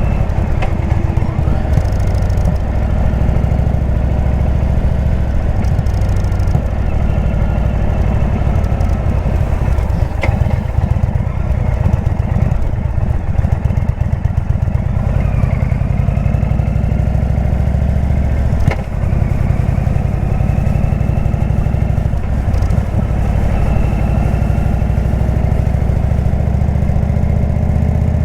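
Indian V-twin motorcycle engine with a Jekill & Hyde exhaust, running under way as the bike is ridden. The revs rise and fall gently.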